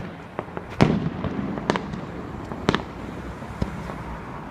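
Fireworks going off: about five separate sharp bangs roughly a second apart over a low rumble, the loudest about a second in.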